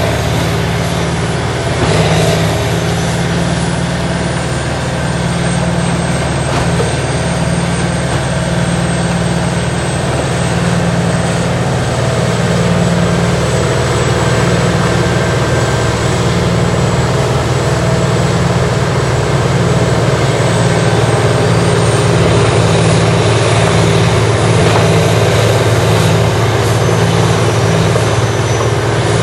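Large diesel engine of a tracked Morbark horizontal grinder running loud and steady as it grinds tree tops and branches, with slight swells in level.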